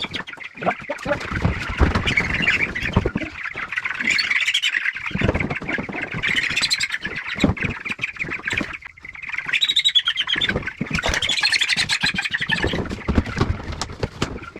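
A crowd of Cornish cross meat chicks cheeping and squawking continuously, with scattered knocks and bumps mixed in.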